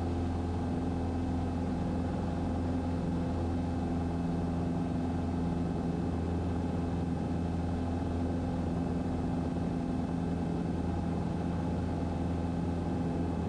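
Cessna 150's Continental O-200 four-cylinder engine and propeller droning steadily in the cabin at climb power, with an even, unchanging pitch.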